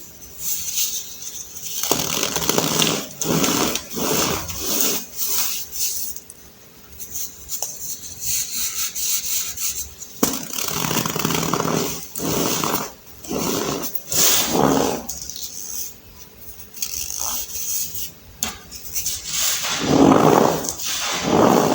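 Compacted baking soda being crushed by hand, crunching and squeaking in irregular bursts with short pauses between squeezes.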